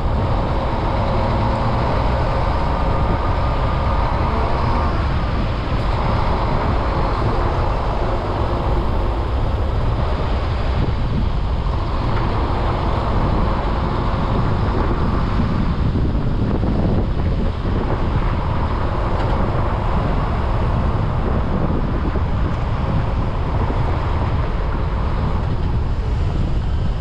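Steady road-traffic noise: vehicles running on a road, with a heavy low rumble and no breaks.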